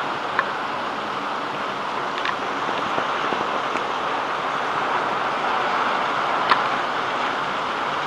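Heavy rain pouring down in a steady hiss, with a few sharp drip taps, the loudest about six and a half seconds in.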